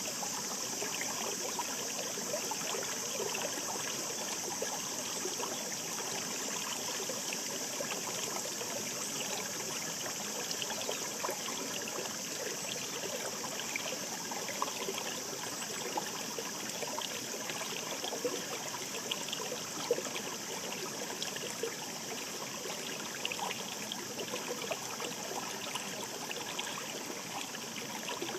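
Murmuring shallow mountain stream flowing steadily, an even rush of water with many small splashes and trickles throughout.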